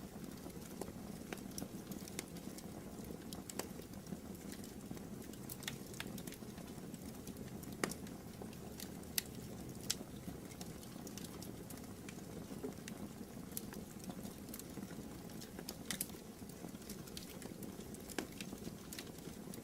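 Wood fire burning in a fireplace: a steady low hiss with irregular sharp crackles and pops, a few louder pops in the middle.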